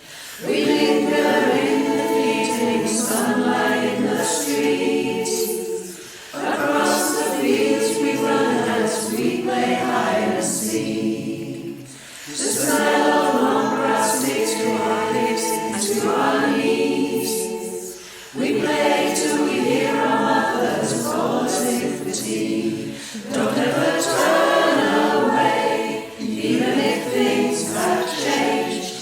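Choir singing a song in harmony, in phrases of about six seconds with short breaths between them.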